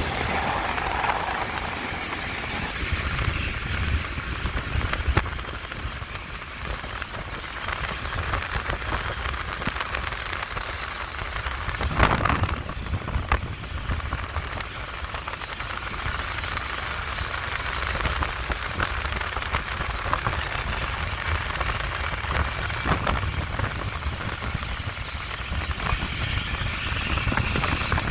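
Train running on the track: a steady rumble and rattle with irregular crackling, and a brief louder burst about twelve seconds in.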